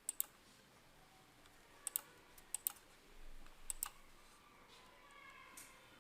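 Faint computer clicks from working the editing software, several of them in quick pairs, spread through the first four seconds over a low hiss.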